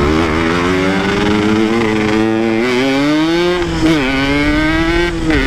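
Motorcycle engine running under way, its pitch climbing slowly, dipping sharply about four seconds in, then climbing again and dropping near the end.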